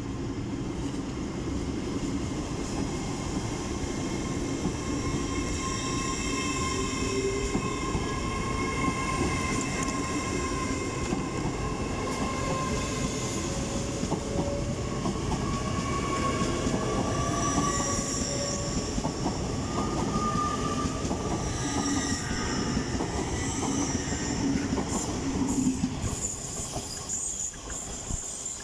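LNER Hitachi Class 800 Azuma train pulling out and accelerating past: a steady rumble of wheels and running gear, with a whine of several tones that slowly rise and shift in pitch. The sound eases off near the end as the train draws away.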